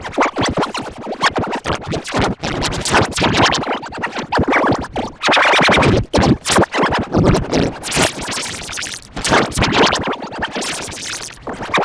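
Loud, distorted effects-edit audio: the clip's sound chopped into rapid stuttering cuts with a record-scratch-like quality.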